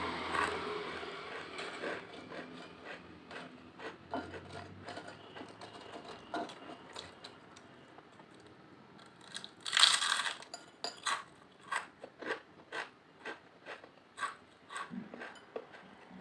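Potato chips being crunched and chewed close to the microphone, a rapid run of crisp cracks. There is a louder crunch about ten seconds in, followed by steady chewing crunches, about two to three a second.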